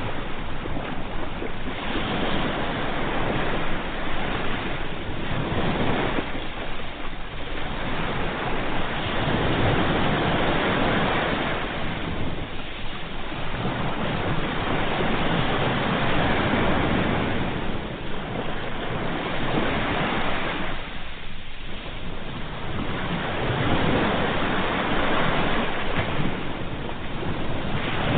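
Ocean waves washing in, a steady surf sound that swells and eases in slow surges every few seconds.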